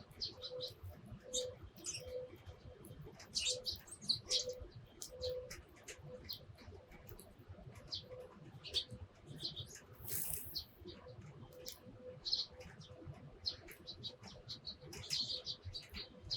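Eurasian tree sparrows chirping: many short high chirps in quick, irregular runs. A soft low note repeats about once a second through the first half.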